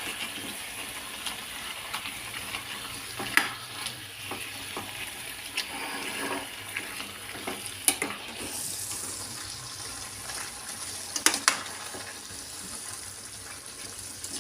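Chicken gravy sizzling in a pan while it is stirred with yogurt mixed in, with a steady hiss and a few sharp clinks of the spoon against the pan, two of them close together near the end.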